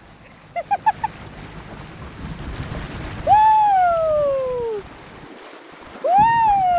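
A person's high, drawn-out "woo" calls: two long hoots, each rising briefly and then sliding down in pitch for about a second and a half, with a quick run of short rising chirps about half a second in. Wind and water noise sit underneath.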